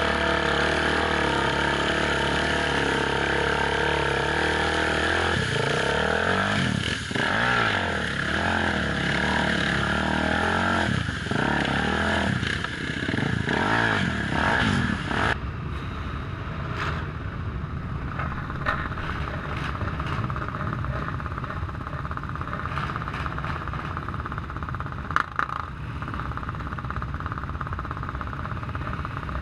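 Off-road motorcycle engines running, their pitch rising and falling with revving in the middle. About halfway through the sound changes abruptly to a rougher engine noise with a few sharp knocks.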